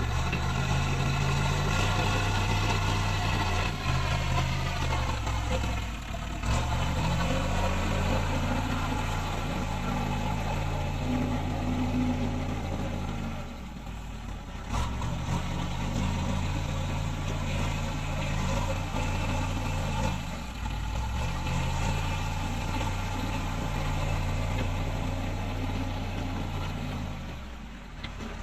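Diesel engine of heavy earthmoving road-building machinery running, its pitch shifting up and down as it works, with a brief drop in level about halfway through.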